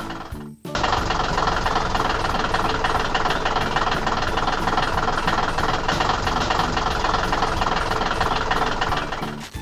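Heavy machine engine running steadily, a sound effect for an animated construction vehicle at work. It briefly drops out just after the start.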